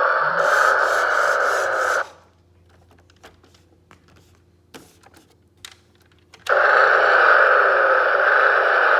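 Battery-powered toy monster truck driving, its electric motor and plastic gearbox running with a loud grinding whir. It stops abruptly about two seconds in, leaving a few faint clicks, and starts up again with the same whir after about six and a half seconds.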